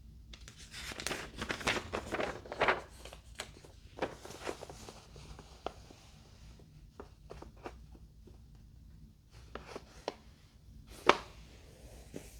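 Model-airplane parts and packaging being handled: a stretch of rustling and crinkling in the first few seconds, then scattered small clicks and knocks, with one sharp click about 11 seconds in.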